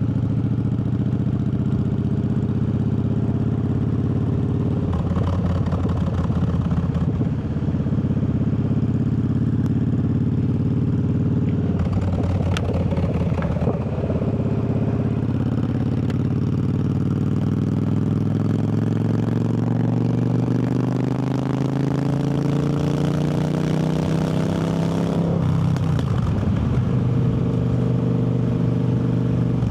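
Triumph Bobber's 1200 cc parallel-twin engine running under way on the road. Its note climbs slowly for about ten seconds under acceleration, then drops suddenly about 25 seconds in, as at a gear change.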